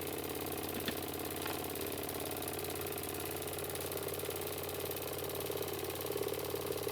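A 1950s Jensen #70 toy live steam engine running under steam, a fast, even mechanical clatter that keeps a steady pace, with its electric boiler heater turned down to 85 volts. It grows a little louder about six seconds in.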